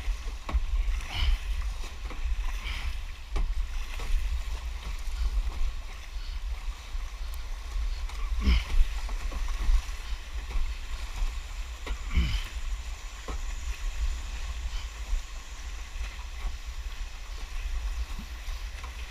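Kayak paddling on fast floodwater: occasional paddle strokes splashing, over a steady low rumble of moving water.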